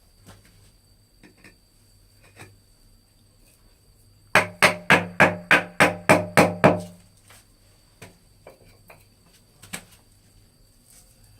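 A quick run of about ten hard blows on wood, some four a second, starting about four seconds in, followed by a few light knocks and clicks.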